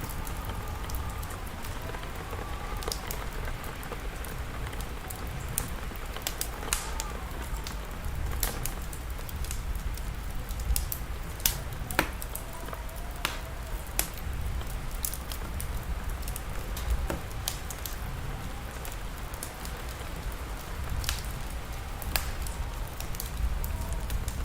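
Wood fire crackling, with sharp pops scattered through it over a steady low rumble and rain hiss.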